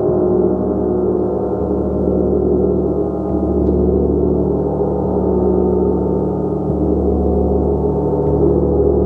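Gong played continuously with soft mallet strokes: a steady, dense wash of many overlapping ringing tones. The deep hum shifts every couple of seconds as each new stroke lands.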